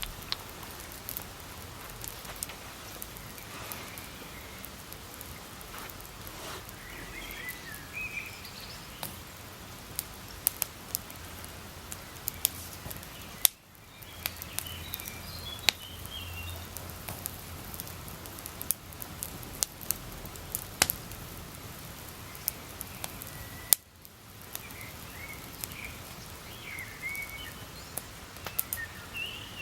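Campfire burning, with irregular sharp crackles and pops from the burning wood over a steady hiss.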